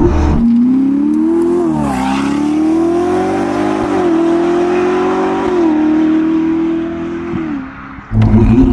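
Ferrari SF90 Spider's twin-turbo V8 through a Novitec sport exhaust, accelerating hard with quick upshifts: the engine note climbs, drops sharply about two, four and five and a half seconds in, and climbs again. Near the end the throttle eases off and the note fades, then a sudden loud low rumble comes in.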